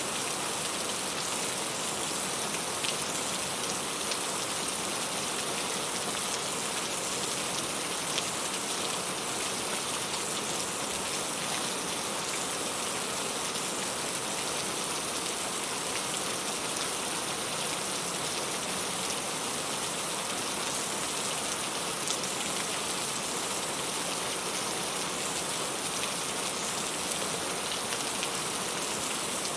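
Steady rain falling and pattering on a surface, a constant hiss with scattered individual drop ticks.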